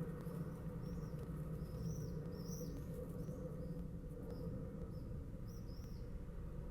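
Bird chirps: about ten short, high, arched notes in loose, irregular clusters over a steady low hum.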